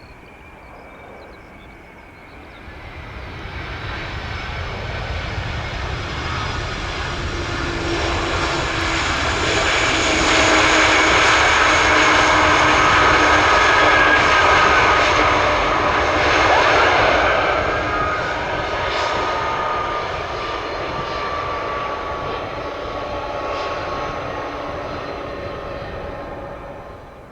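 Airbus A300 freighter jet passing close on its landing approach. The engine noise builds over several seconds, is loudest mid-way, then fades, with whining engine tones slowly falling in pitch as it goes by.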